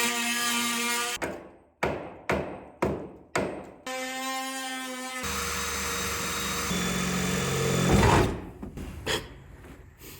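Oscillating multi-tool with a metal-cutting blade buzzing in on-and-off runs and short bursts as it cuts through a rusted truck body mount bolt. About eight seconds in there is a loud clunk, when the tool slipped and went through the rotted floorboard.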